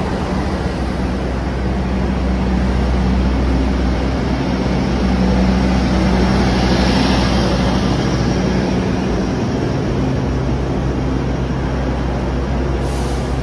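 Locomotive-hauled intercity train rolling past a station platform: a steady diesel hum with wheel and rail rumble. It swells a little about six seconds in as the louvred generator car goes by.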